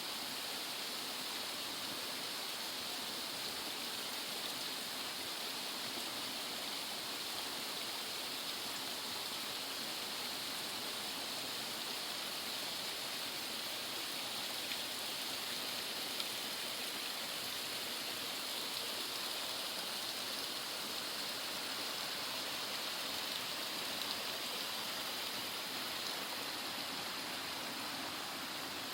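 Steady, even rushing water noise with no breaks.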